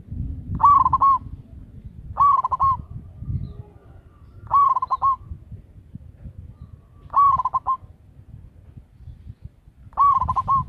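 Zebra dove (perkutut) cooing: five short trilled calls, each about half a second long, repeated every two to three seconds over a low background rumble.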